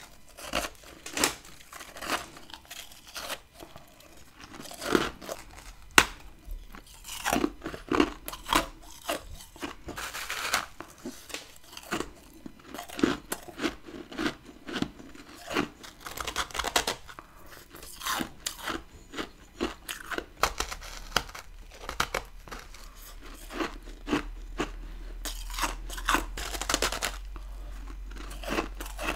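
Close-up biting and chewing of chunks of freezer frost ice: irregular sharp crunches and crackles, coming in clusters of several a second.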